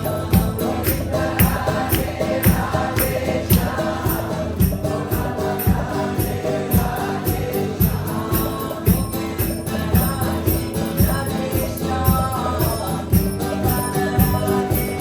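Group chanting of a Krishna kirtan, many voices singing together, over jingling percussion keeping an upbeat, steady beat.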